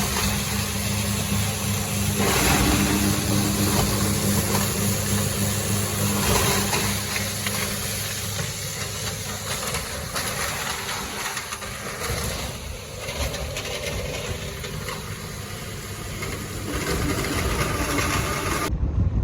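Feed grinder grinding ear corn, running steadily with a dense, hissing machine noise and a low engine hum underneath.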